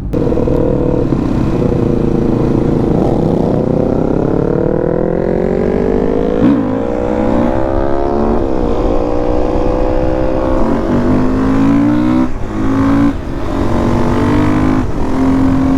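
Beta 480 RR supermoto's single-cylinder four-stroke engine pulling away under throttle, its pitch climbing over several seconds. It then runs at a fairly steady pitch, with a few brief dips.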